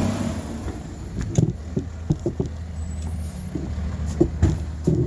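Garbage truck engine running steadily, with a series of short knocks and clunks about a second and a half in, around two seconds in, and again near the end.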